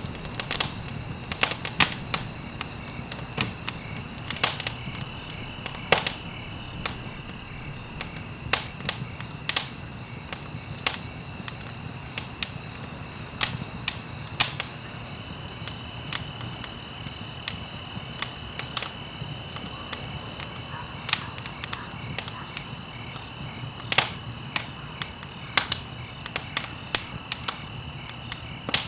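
Wood fire crackling and popping in a fireplace: irregular sharp snaps, a few much louder than the rest, over a steady low rumble of the flames. A steady high-pitched tone runs underneath.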